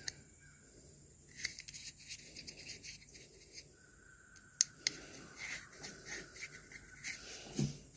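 Faint handling sounds of small parts being worked by hand: scattered light clicks and rubbing as heat-shrink tubing is slid over harness wires, with a faint steady high tone for a few seconds in the middle.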